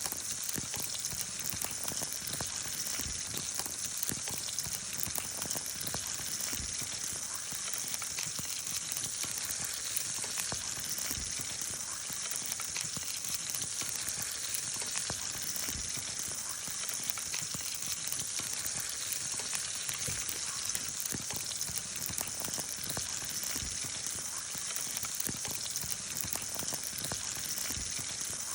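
Kibinago (silver-stripe round herring) tempura deep-frying in hot oil: a steady, even sizzle that neither builds nor fades.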